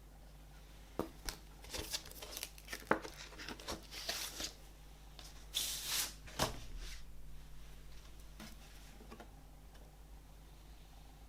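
Hands handling vinyl record packaging: a run of taps and short paper or plastic rustles, with a longer tearing or sliding rustle a little past halfway.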